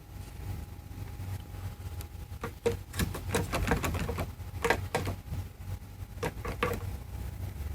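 Loose B-pillar interior trim panel rattling in quick clusters of plastic clicks over the car's low steady rumble. The loose trim is the source of the B-pillar noise.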